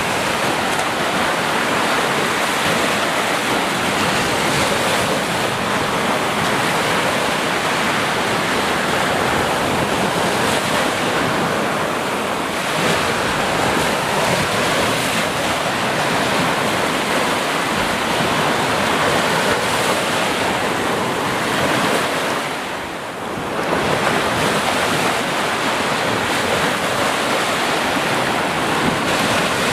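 Sea surf: waves washing in a continuous, steady rush, easing briefly about two-thirds of the way through.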